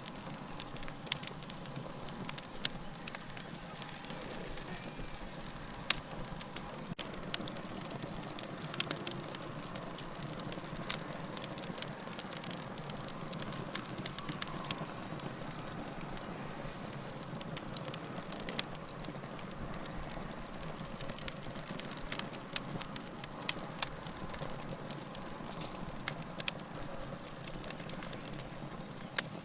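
Fire crackling: irregular sharp pops and snaps, several a second, over a steady rushing hiss.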